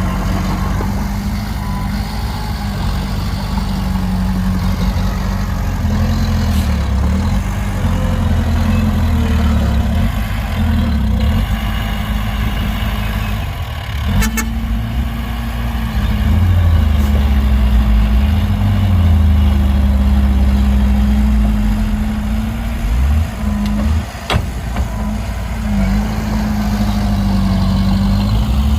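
Heavy diesel engine of a large truck or earthmover running under load, its revs rising and falling. A short high rattle about halfway through, and a sharp knock a few seconds later.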